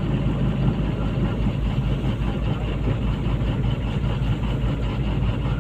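Komatsu PC200-8 excavator's common-rail diesel engine running steadily at idle.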